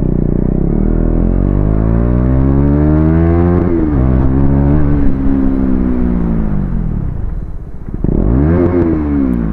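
KTM Duke 250's single-cylinder engine through an aftermarket LeoVince exhaust, accelerating with a rising pitch for about three and a half seconds, then dropping sharply and holding steady. It eases off and then gives one quick rise and fall near the end.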